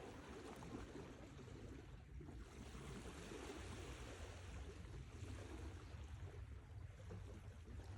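Sea waves washing on the shore: a faint, steady wash of surf with a low rumble underneath and a brief lull about two seconds in.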